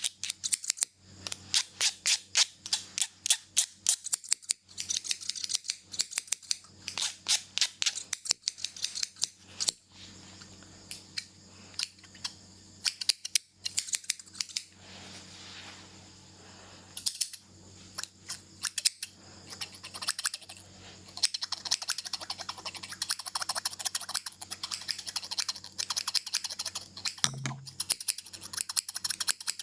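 Scissors snipping close to the microphone in quick runs of sharp clicks, easing to a softer, sparser stretch partway through before picking up again densely.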